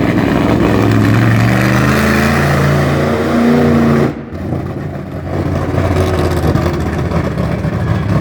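Monster truck engine revving, its pitch climbing steadily for about four seconds before the throttle drops off suddenly, then running on lower and steadier.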